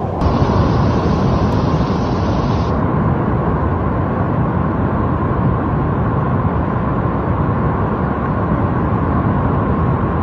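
Steady, loud rushing and rumbling of floodwater carrying rocks and debris down a valley.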